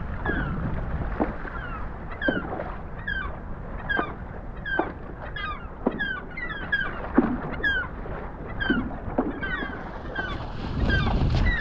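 A gull calling over and over in short, falling alarm calls, about one a second or faster, as it defends its nest against an intruder. The calls sit over a steady low rumble with a few short knocks.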